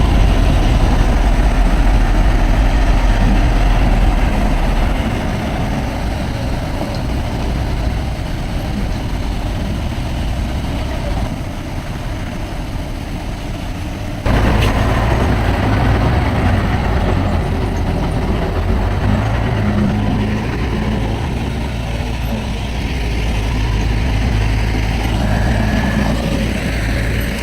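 Heavy diesel earthmoving machinery running steadily, with a sudden change in the engine sound about halfway through.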